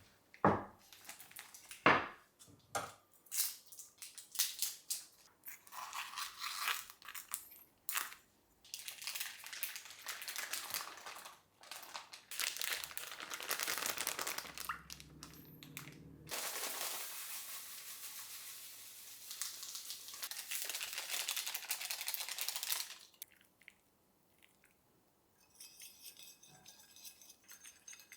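Food-prep handling with plastic packaging crinkling and tearing, mixed with sharp clicks and knocks. After about 16 seconds a steady hiss runs for several seconds, then stops.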